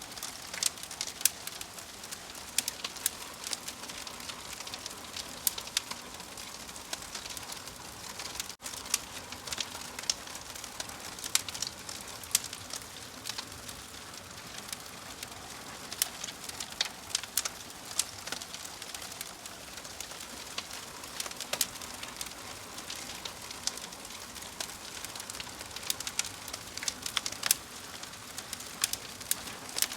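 Wood fire crackling: irregular sharp pops and snaps over a steady hiss, with a momentary dropout about eight and a half seconds in.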